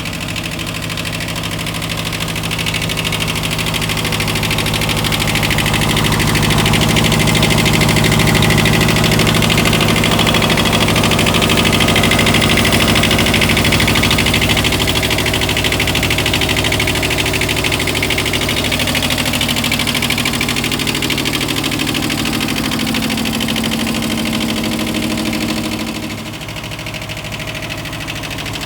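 Kubota B4200 compact tractor's diesel engine running steadily. It comes up a little louder through the middle, then settles lower about 26 seconds in.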